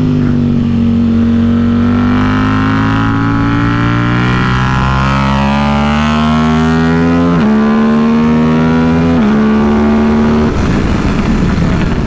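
KTM RC8C parallel-twin engine pulling hard under throttle, its pitch climbing steadily, with two quick upshifts about seven and nine seconds in. Near the end the throttle closes and the note turns rough and uneven as the bike slows.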